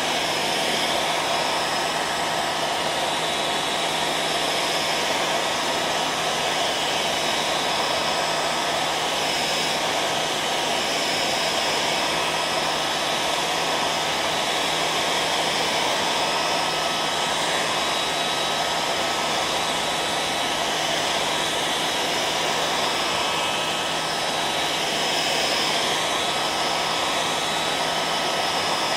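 Hair dryer running steadily: a constant rush of blown air with faint steady tones from the motor and fan, unchanging throughout.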